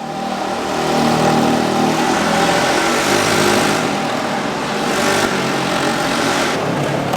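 Several motorcycle engines revving hard together as the riders race round a Wall of Death, their pitch shifting up and down as they circle. The sound swells about a second in and stays loud.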